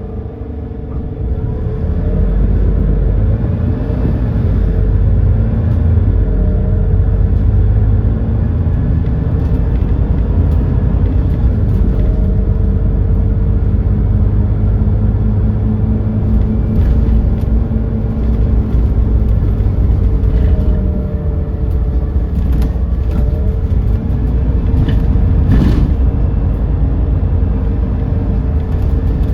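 GX12P natural-gas engine of an Edison Motors Smart 110G city bus running under way, a loud, steady low rumble that grows louder about a second in and then holds. A few brief clicks and rattles come in the later part.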